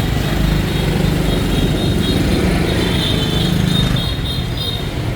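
Motorbike and scooter engines running close by in dense street traffic, a steady low engine drone.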